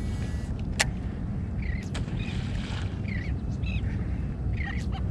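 Seagulls calling over a feeding frenzy: a string of short, repeated calls, about one a second, over a steady low rumble, with one sharp click a little under a second in.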